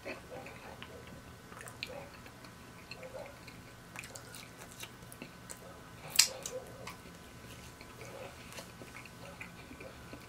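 Close-miked chewing and eating of fried food, with small wet mouth clicks scattered throughout. One sharp, loud smack comes about six seconds in as fingers are licked.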